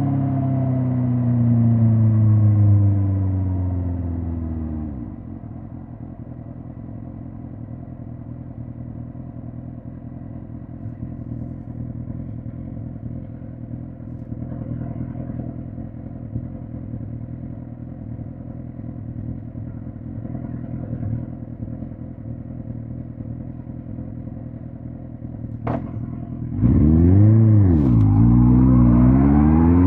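2005 Suzuki GSX-R1000 K5's inline-four engine heard from on the bike, its pitch falling as it slows over the first few seconds, then idling steadily for about twenty seconds. Near the end, after a single click, it pulls away loud, the pitch climbing, dropping once at a gear change, then climbing again.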